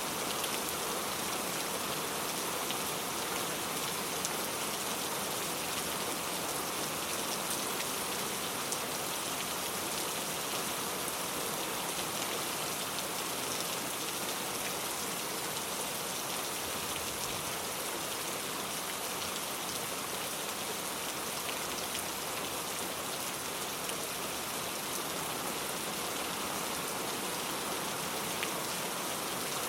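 Steady rain falling, a dense even hiss with fine drops pattering on a surface.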